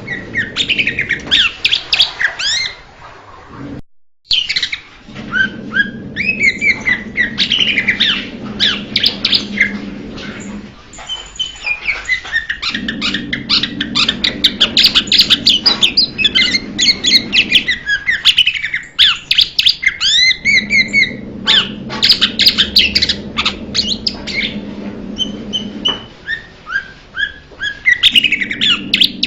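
Blue-winged leafbird singing: fast, varied runs of high chirps and slurred whistled notes in phrases of several seconds, broken by short pauses of about a second.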